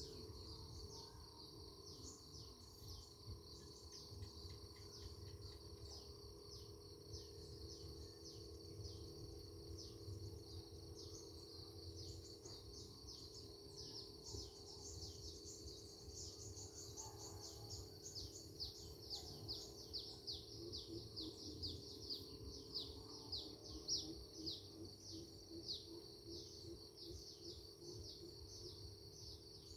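Small birds chirping in a continuous stream of short, high, quickly falling calls, busiest in the second half, faint against a low rumble of rural background noise.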